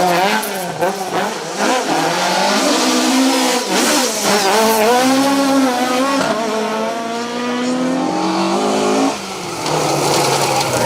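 Ford Escort Mk2 rally car's four-cylinder engine at full throttle on a stage. The revs rise and fall through the bends, then climb steadily in one gear before a sharp drop about nine seconds in, as at a lift or gear change.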